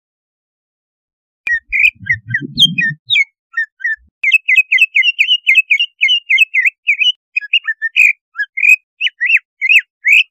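Greater green leafbird (cucak ijo) singing a fast series of sharp, whistled chirps that slide up and down. It starts about one and a half seconds in and runs almost unbroken from about four seconds in, with a brief low, rough sound under it around two to three seconds in. This is the fierce 'pancingan' song that keepers play to rouse a cucak ijo into aggressive, breeding-season excitement.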